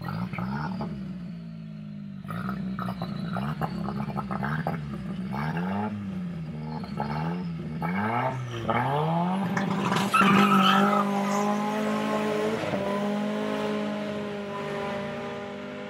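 Mazda 626 GLX engine revved repeatedly up and down while the car is held at the start line, then a full-throttle launch about ten seconds in with a brief tyre squeal. The engine keeps running hard as the car pulls away down the strip.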